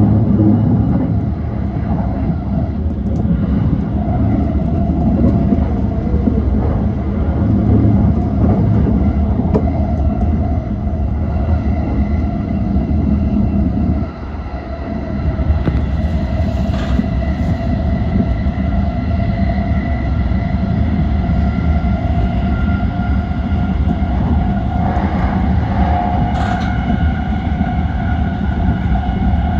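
E235-1000 series electric multiple unit running on the Yokosuka Line: a steady rumble of wheels on track with steady whining tones from the drive over it. The loudness dips briefly about halfway through, and there are a couple of short sharp clicks later on.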